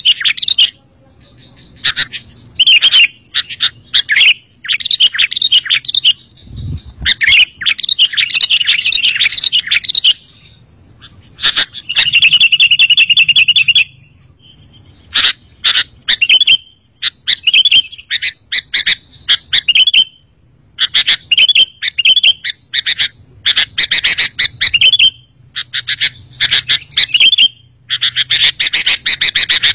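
Sooty-headed bulbul (kutilang) singing loudly in short, rapid phrases repeated with brief pauses between them. It is a song recording meant to lure bulbuls or prompt caged ones to answer. A brief low thud comes about a quarter of the way in.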